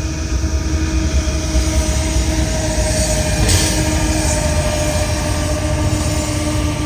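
BNSF intermodal freight train running by: a steady low rumble with a faint steady whine above it and a brief hiss about three and a half seconds in.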